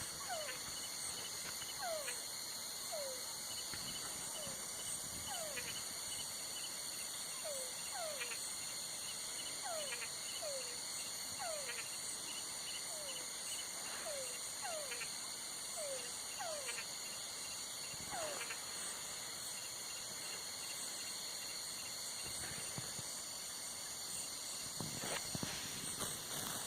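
Night chorus of crickets and other insects, a steady high-pitched trilling. Over it, for the first two-thirds, comes a string of short calls falling in pitch, one or two a second, which then stop.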